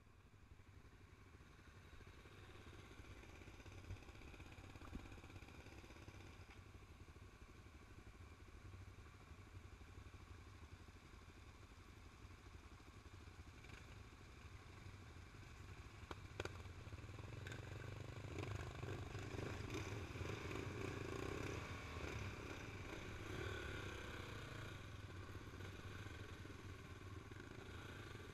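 An engine running steadily, fading in from near silence and getting louder past the middle, with a few sharp clicks.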